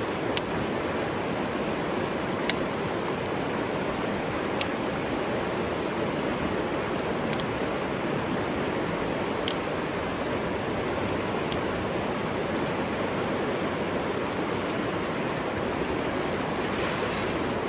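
A river or stream flowing steadily. Sharp single clicks or pops sound over it about every two seconds, the loudest near the start.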